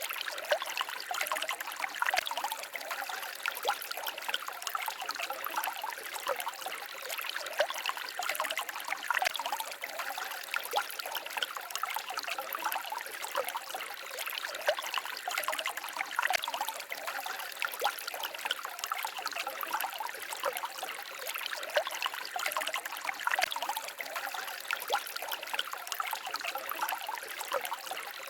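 Small forest stream babbling and trickling over stones, a steady patter of many small splashes.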